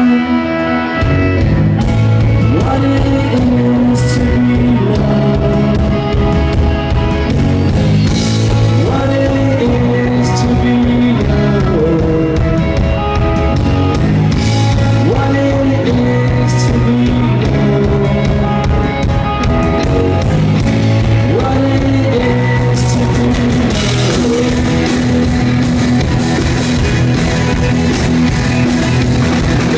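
Rock band playing a song with electric guitar, bass and drum kit. The cymbals grow louder and fuller about three-quarters of the way through.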